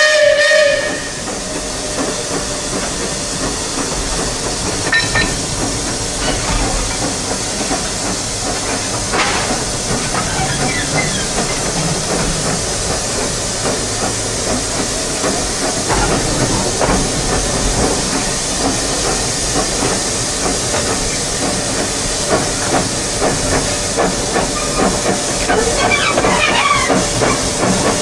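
Steam locomotive: a chord-like steam whistle cuts off about a second in, then a steady loud hiss of steam with the rumble and scattered clanks of the train running.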